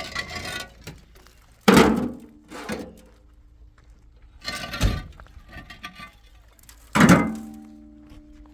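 Five irregular knocks of metal objects being handled, the later ones leaving a ringing tone that hangs on for a second or more.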